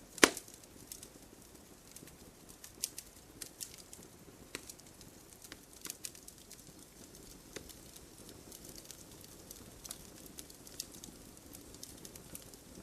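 Wood fire burning in a fireplace, crackling with scattered sharp pops over a low steady hiss; one loud pop comes just after the start.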